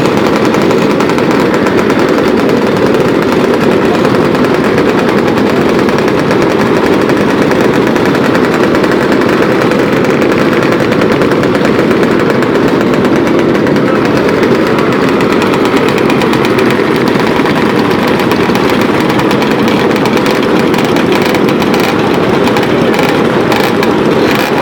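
Motorcycle engines running loudly and steadily, a rapid pulsing exhaust beat with no let-up.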